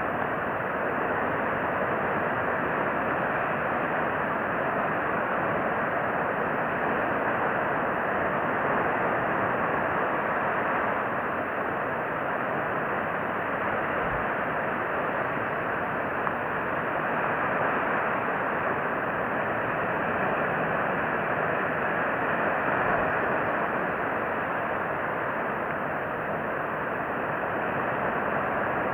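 A steady, even rushing noise with no distinct events or calls.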